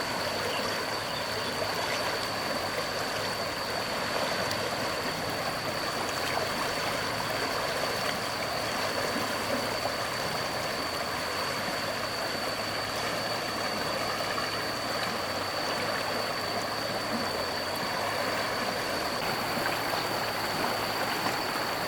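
Flowing floodwater rushing steadily, with a thin, steady high-pitched whine held over it.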